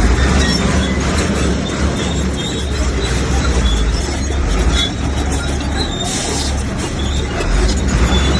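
Komatsu crawler bulldozer's diesel engine running hard under load, with the rattle and squeal of its steel tracks as it pushes earth and rock.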